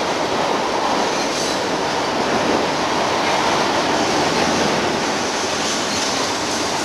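Freight train rolling across a steel truss bridge overhead, making a steady, loud noise of wheels and cars.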